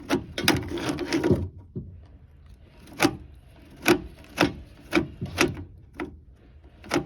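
Drain snake being worked into a clogged drain line: sharp, irregular knocks of the cable against the pipe, with a scraping rub in the first second or so.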